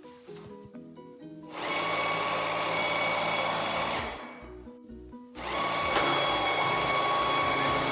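Roborock Q10V+ robot vacuum's suction motor starting and running with a steady whirring and a high whine, stopping for about a second around four seconds in and then running again. A short run of stepped musical tones comes before the motor starts.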